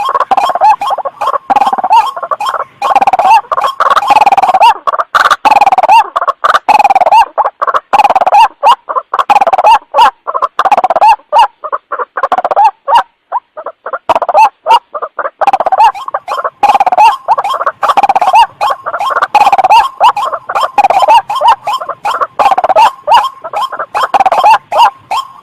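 White-breasted waterhen calling: a loud, rapid run of harsh repeated notes, broken by a short pause about halfway through, played as a bird-lure recording.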